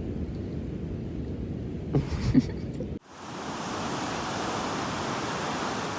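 Wind rumbling on the microphone with a couple of bumps, then after a sudden cut about halfway through, ocean surf washing in a steady hiss.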